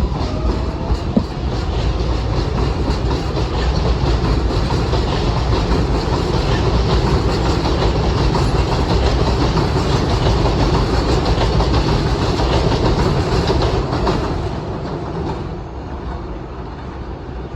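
R188 subway train on the 7 line pulling out of a station, its wheels clattering over the rail joints as it speeds up. The noise builds over the first few seconds and eases off after about fourteen seconds as the train moves away.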